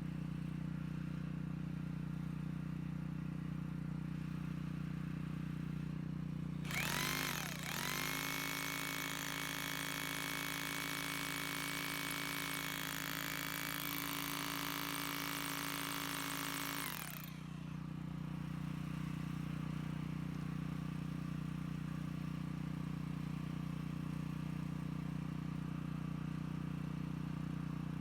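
Bosch GBH 2-20S hammer drill's electric motor switched on: it spins up with a rising whine about a quarter of the way in, runs steadily for about ten seconds, then is switched off and stops. A steady low hum runs underneath throughout.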